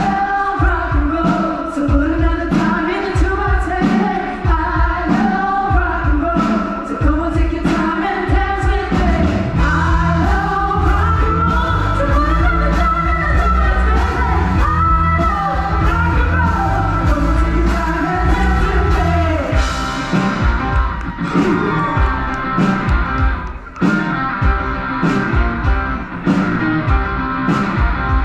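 Rock song with a lead vocalist singing over a band with a steady drum beat.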